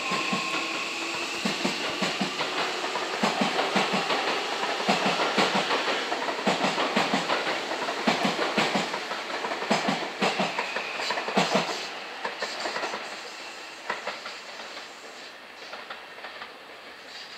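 Seibu 001 series Laview limited express train running past, its wheels clacking over rail joints in rhythmic pairs under a faint motor whine. The clacking fades away after about twelve seconds as the train draws off into the distance.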